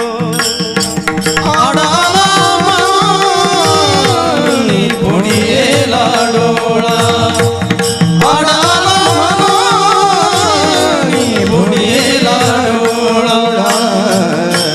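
Kirtan singing: a voice draws out long, wordless melodic phrases that rise and fall, over a steady drone and tabla beats.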